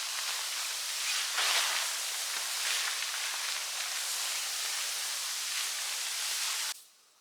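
A steady outdoor hiss with a few louder swells, cutting off abruptly near the end.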